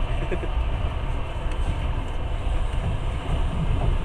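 Passenger train running, heard from inside the carriage: a steady, low rumble of wheels and running gear on the track.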